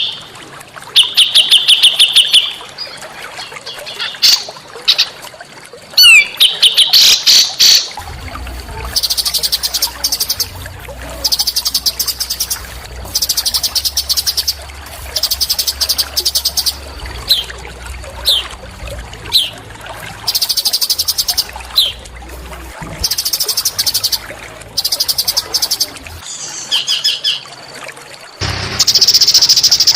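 Small songbird singing: repeated bursts of rapid, high-pitched trills about a second long, with short downward-sliding whistles between them.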